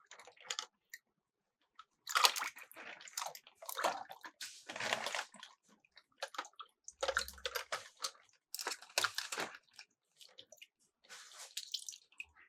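Miniature toy cars clattering down a plastic slope and dropping into water, heard as about five rattling bursts of clicks and splashes separated by short pauses.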